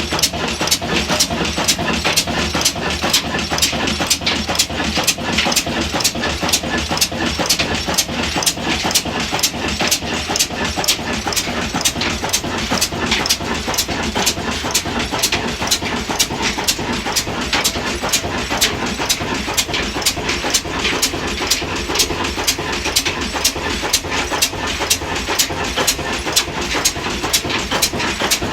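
Large-flywheel stationary diesel engine running steadily, with an even, regular exhaust beat.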